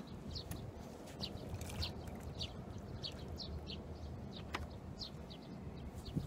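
A small bird calling with short, high chirps, two to three a second, over a low steady rumble.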